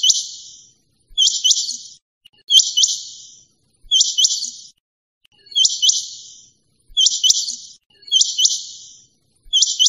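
Quail calling over and over, about one call every second and a half. Each call is two sharp rising chirps trailing off into a harsh rasp.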